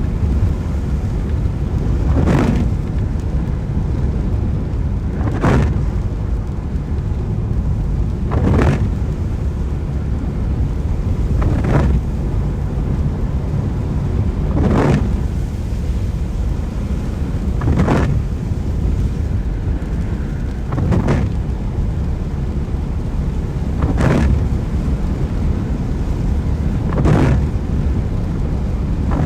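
Road and engine rumble inside a moving car in the rain, with a windscreen wiper sweeping across the glass about every three seconds.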